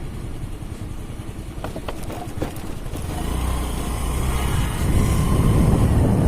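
Motorcycle running on the road, with engine and road noise growing louder from about halfway through.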